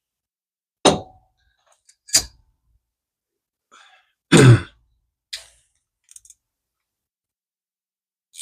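A few separate clicks and knocks of small hand tools and reel parts being handled on a workbench, with a louder throat clear about four seconds in.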